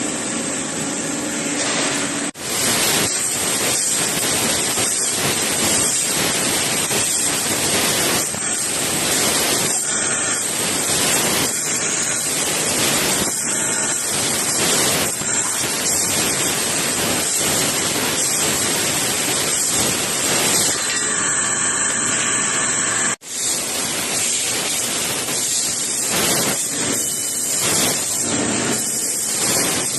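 CNC laser tube-cutting machine running, a loud steady hiss with a faint high whine, cutting out abruptly twice for a moment.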